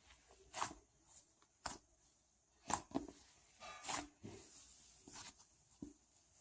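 Cloud slime being squeezed and stretched by hand, giving about half a dozen short sticky crackles and tearing sounds at uneven intervals.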